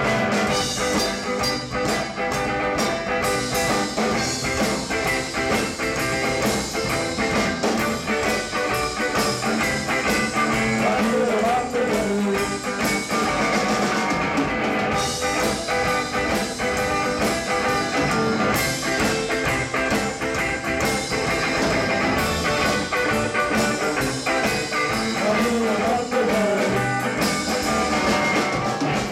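Rockabilly band playing live through an instrumental break between verses, with electric guitar over a steady rock-and-roll beat. A few bending notes come about eleven seconds in and again near the end.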